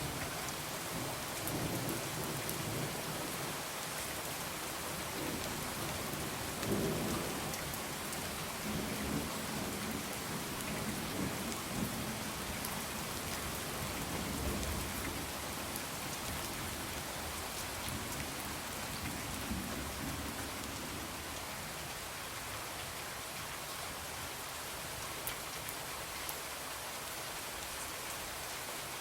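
Steady rain falling on a window, with low rolling thunder rumbling on and off through the first two-thirds, loudest about seven seconds in.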